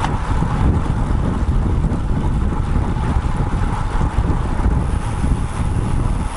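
Wind buffeting the microphone of a bike-mounted action camera on a moving road bike: a steady, unbroken rumble and hiss, with road noise underneath.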